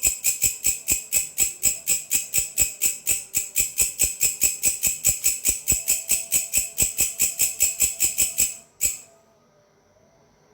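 Grasshopper stridulating: a fast, even run of sharp, high ticks, about six a second. The run stops near the end with one last separate tick, then a pause.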